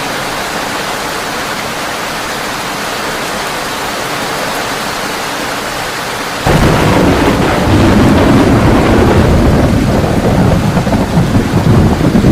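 Heavy rain falling steadily on a tin roof. About halfway through, a loud low rumble of thunder sets in suddenly and keeps going to the end.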